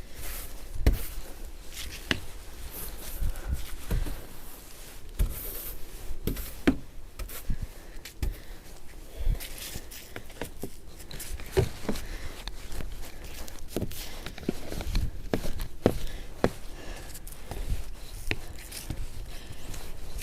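Snow brush sweeping powdery snow off a car, in irregular swishes and scrapes, with knocks and footsteps in the snow.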